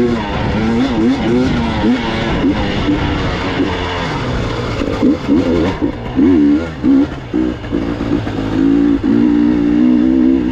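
Gas Gas EX 300 two-stroke enduro motorcycle engine revving up and down with quick throttle changes, then holding a steadier pitch about eight seconds in.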